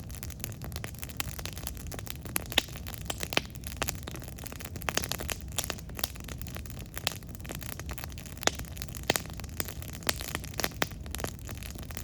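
Campfire crackling: burning wood giving irregular sharp pops and snaps over a low, steady rumble.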